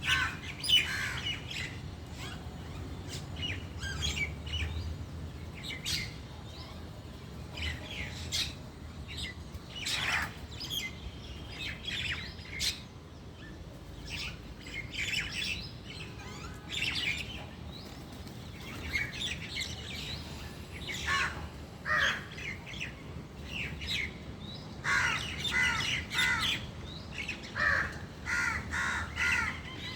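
Birds calling in short calls that come on and off throughout and crowd together in the last few seconds.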